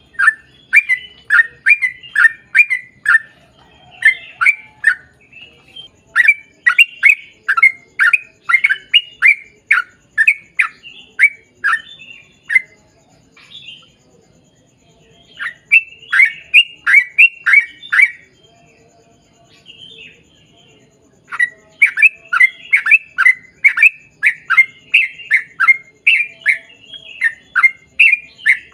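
Yellow-vented bulbul (trucukan) singing long, fast, chattering runs of sharp notes, about three or four a second. Each run lasts several seconds, with short pauses between the runs.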